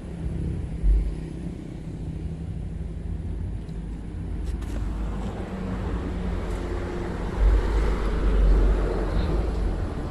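Low rumble of traffic on the road bridge overhead, swelling loudest about eight seconds in, with a brief low thump about a second in.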